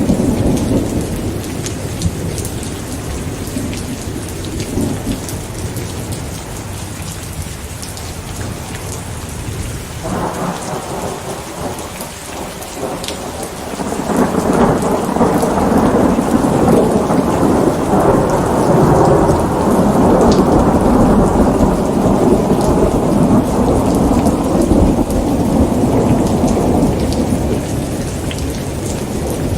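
Steady rain with scattered drops ticking close by, and a long roll of thunder that swells about halfway through and rumbles on until near the end.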